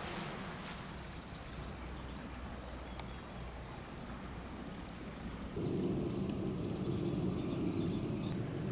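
Small birds chirping now and then over steady outdoor background noise; a little over halfway through, a louder low rushing noise comes in and holds.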